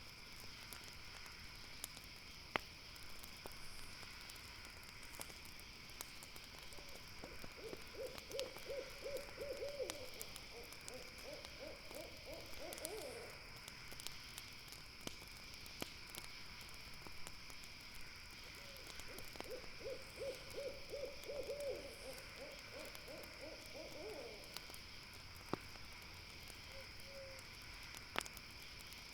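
An owl hooting: two long runs of quick, closely spaced hoots that rise a little at the end, the second about ten seconds after the first. Under it, insects chirr steadily at a high pitch and a campfire gives sharp, scattered crackles.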